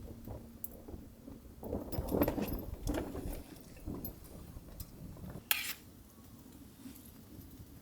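Handling noises of cooking gear: soft knocks and rustling clustered in the middle, and one sharp clink about five and a half seconds in.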